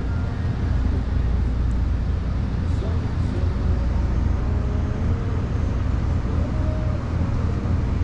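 Truck engine running steadily, a low rumble, with faint voices in the background.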